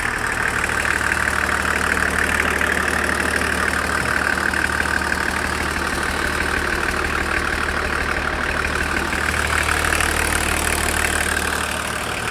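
BMW M51 2.5-litre turbodiesel straight-six running steadily at idle, with the usual diesel clatter. It swells slightly about a second in and again near ten seconds.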